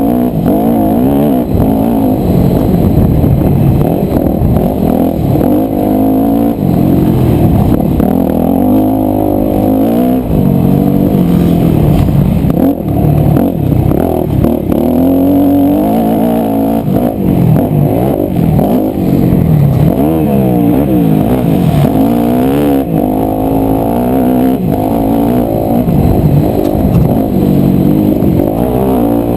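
Yamaha YZ250F four-stroke single-cylinder motocross engine revving up and down continuously while being ridden, its pitch rising and falling every second or two through throttle and gear changes. It sounds muffled, as heard through a GoPro housing.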